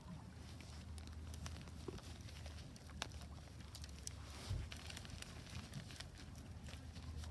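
Wood fire burning in a Solo Stove Ranger fire pit: scattered crackles and pops over a steady low rumble, with a sharper pop about three seconds in.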